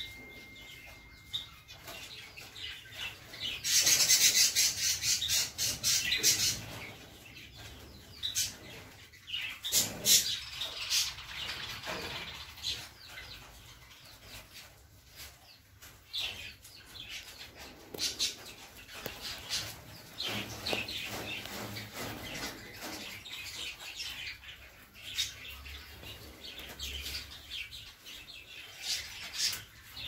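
Cage birds chirping and squawking: a loud run of rapid, high-pitched calls about four seconds in, then scattered shorter calls and chatter.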